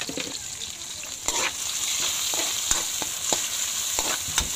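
Garlic, onion and tomato sizzling in hot oil in a metal pan, stirred with a metal spatula that clicks and scrapes against the pan. The sizzle gets louder about a second in.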